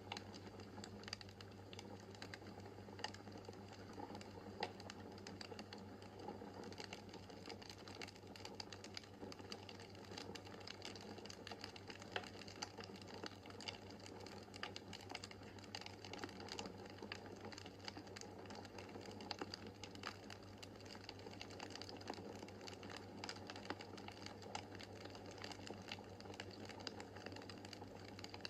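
Wood fire crackling in a fireplace, with many small sharp pops and snaps at an irregular pace over a steady low hum.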